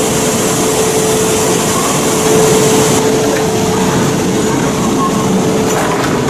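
Shinkansen train running at speed, heard from inside the carriage: a steady rumble and hiss with a constant hum.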